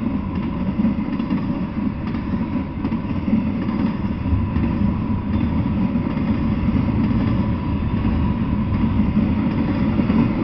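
Double-stack intermodal freight train rolling past on its steel wheels: a steady low rumble that holds without a break.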